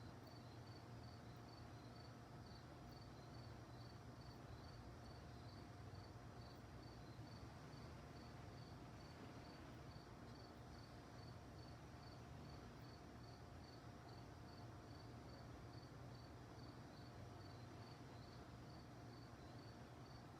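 Crickets chirping faintly and steadily at night, a regular two to three chirps a second, over a low steady hum.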